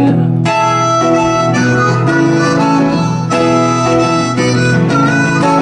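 Harmonica playing a melody of held notes over strummed acoustic guitar, in an instrumental break of a folk song.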